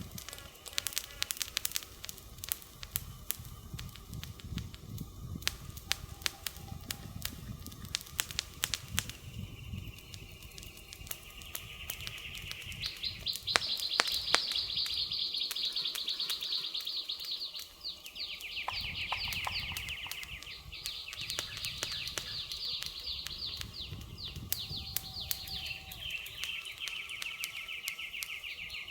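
Wood fire crackling with sharp pops, joined about twelve seconds in by a high, fast trilling call from a bird or insect that runs in stretches of several seconds, stepping between a higher and a lower pitch.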